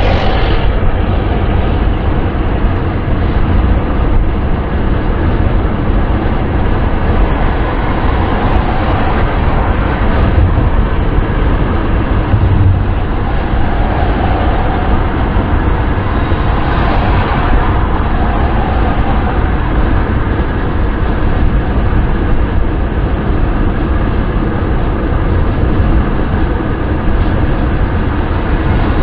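Steady wind and road noise of a car driving: a deep rumble with a hiss above it, swelling slightly a couple of times.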